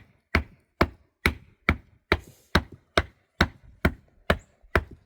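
Steady, evenly paced blows of a hand tool, a little over two a second, each a sharp knock with a low thud.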